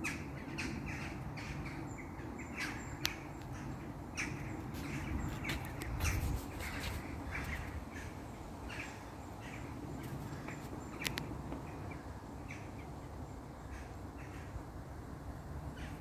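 Birds calling overhead: many short calls, coming one after another throughout, over a steady low background rumble.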